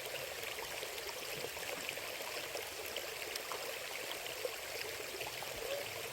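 Steady rush of a mountain stream flowing over rocks, with small splashes and ticks over the top.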